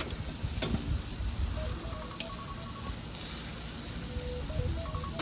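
Chicken sizzling on a barbecue grill: a steady, even sizzle, with a single sharp click about three quarters of a second in.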